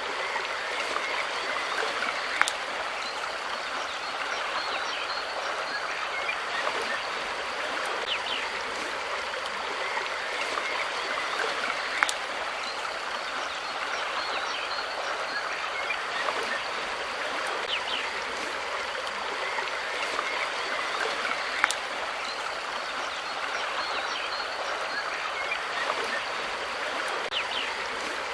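Steady rush of flowing water, like a small stream, with faint short high chirps scattered through it. Three sharp clicks about ten seconds apart stand out above it.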